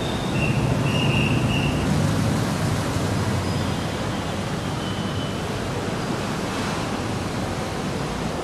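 Metro train running on its track: a steady rushing rumble, with a thin high squeal from about half a second to two seconds in.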